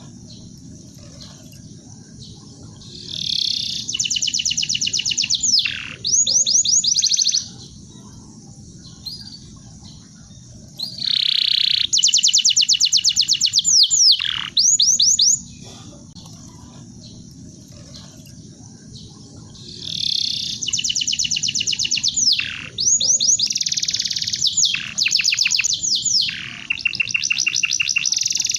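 Canary singing in phrases of fast trills, rapid runs of repeated notes broken by quick downward-sweeping whistles. Phrases start about three seconds in, about eleven seconds in, and from about twenty seconds on, with pauses of several seconds between them. A steady low background noise runs underneath.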